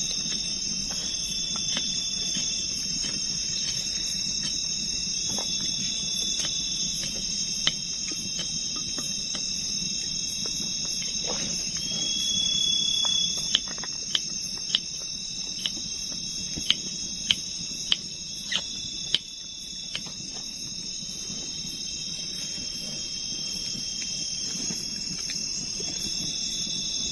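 Night insect chorus: a steady high trill of crickets with another chirp repeating every couple of seconds. Midway through, about ten sharp taps of a knife on a board as onions are sliced.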